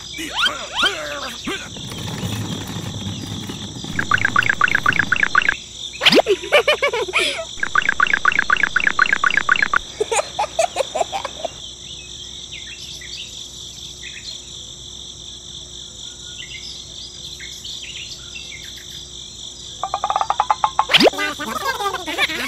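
Steady insect chorus, like crickets, with bursts of rapid chattering trills a few times.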